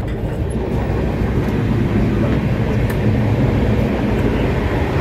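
Loud, steady rumble and rattle of a moving Indian Railways passenger coach, heard from the vestibule by the coach door.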